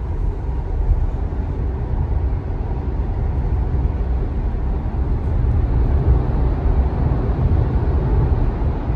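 Steady road and tyre rumble heard inside a moving Tesla Model Y's cabin, with no engine note.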